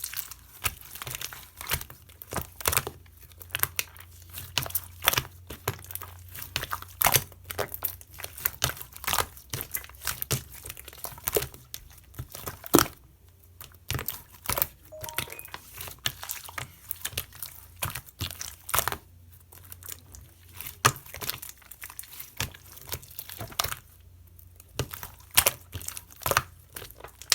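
Slime being pressed, squished and stretched by hand, giving off irregular sharp pops and crackles as air pockets burst.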